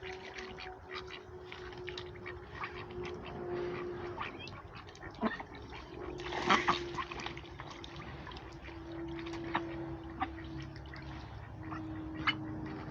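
Ducks and other poultry in a coop: scattered short clicks and brief calls, with a louder flurry about halfway through, over a steady low hum.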